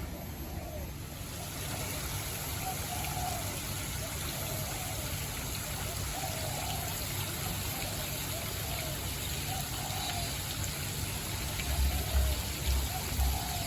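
Running water splashing steadily, with short calls repeating every second or so in the background. Low rumbling surges near the end.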